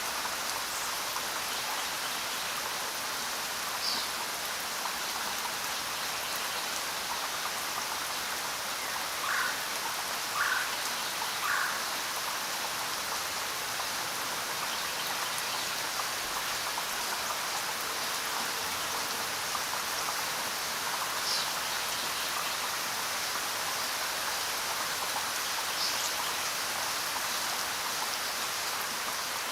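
Steady rain falling, an even hiss of drops that holds level throughout, with a few brief faint chirp-like sounds here and there, three in a row around the middle.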